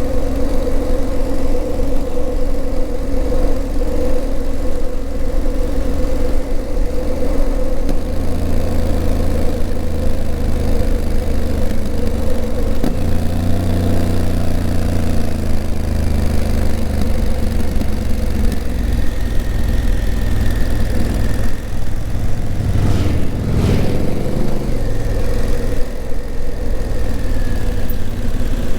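Honda CRF1000L Africa Twin's parallel-twin engine running under way, heard from on the bike. The engine note changes abruptly twice, about eight and thirteen seconds in. A short burst of noise comes about twenty-three seconds in.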